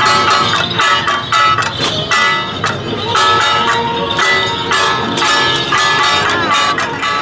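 Traditional procession band music: a high wind melody over gongs and cymbals struck about twice a second.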